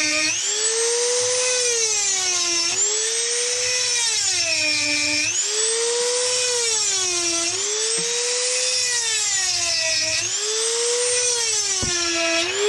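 Small electric chain-sharpening grinder whining at high speed as it grinds the teeth of a new saw chain. Its pitch drops each time the stone bears on a tooth and climbs back as it lifts off, about every two and a half seconds. The motor is losing RPM under the pressure.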